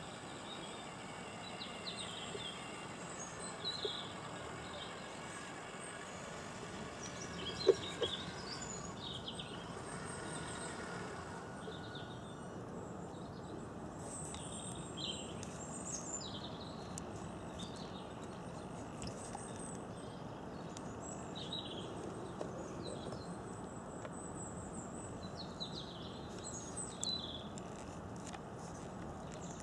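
Wild birds chirping and singing on and off over a steady outdoor background hiss, with a single sharp click about eight seconds in.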